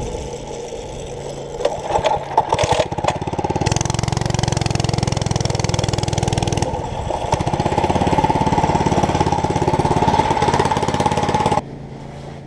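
Small mini bike engine running, with a few sharp knocks early on before it settles into a steady run; the sound drops away abruptly near the end.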